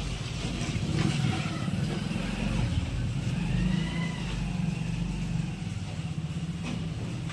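Steady low rumble of a motor vehicle engine running, swelling and easing slightly.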